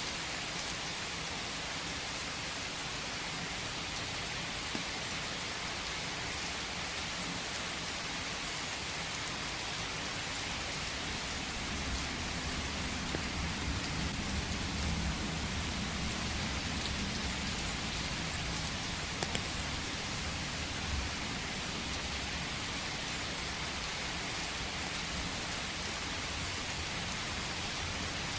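Steady rain falling in a forest, an even hiss with scattered drop ticks. A low rumble swells up about twelve seconds in and fades away a few seconds later.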